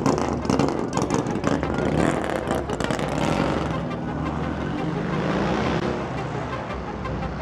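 A car engine rumbling at low speed, with a rough crackle in the first few seconds and a hissing swell of noise about four to six seconds in.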